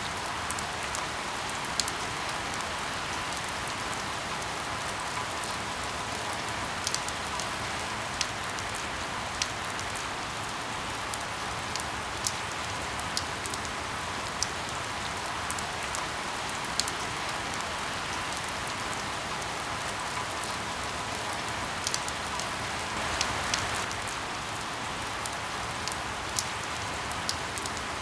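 Steady rain, with scattered sharp pops and crackles of burning firewood at irregular intervals.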